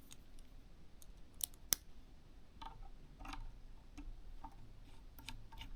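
Faint small clicks and taps as a precision screwdriver drives the small propeller screws on a DJI Mini 3 drone. Two sharp clicks come about a second and a half in, followed by scattered softer taps.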